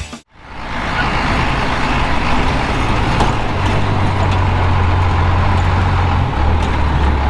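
Truck engine running steadily under way, with a deep hum that drops to a lower pitch about six seconds in as the engine slows.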